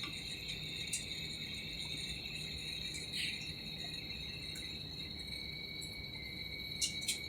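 Airliner cabin noise after landing: a steady high-pitched whine of two held tones over a low hum, with a few faint clicks.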